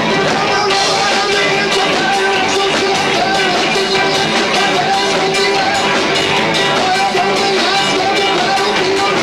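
Live rock band with two drummers playing a loud, dense song, drums hitting several times a second under sustained guitar, bass and keyboard tones. Heard lo-fi and distorted through a 1990s camcorder's built-in microphone.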